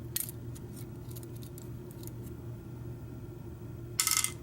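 Small metal parts of a Kwikset deadbolt cylinder (pins, springs and plug) being handled during disassembly. There are a few light clicks, then a brief, louder metallic rattle about four seconds in.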